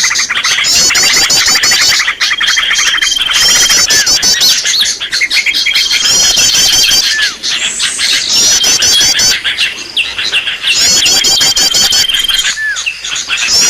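Bird-lure (pikat) recording of small songbird calls: rapid high trills and chirps with a held high whistle, in a sequence that repeats every few seconds.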